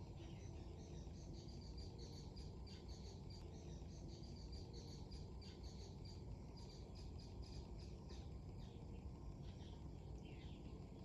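Faint birdsong of rapid, repeated high chirps over a steady low rumble of wind.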